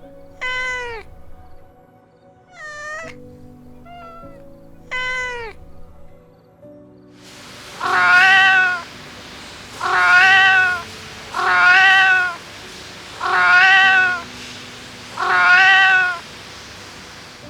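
A kitten meowing again and again: three calls in the first half, then five louder meows about two seconds apart over a steady hiss. Soft background music plays underneath.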